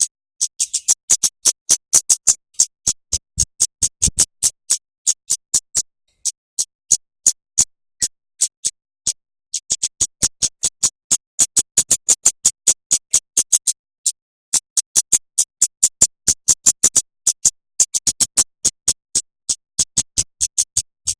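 A songbird's rapid run of sharp, very high-pitched chips, about five or six a second, in bursts broken by short pauses: the close-set 'tembakan' (rapid-fire shots) used as a training song for murai batu and kacer.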